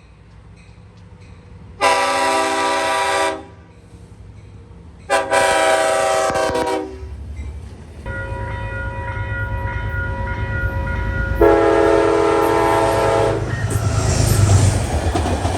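Train horn sounding three long blasts, each lasting one and a half to two seconds, while the low rumble of a train builds steadily underneath.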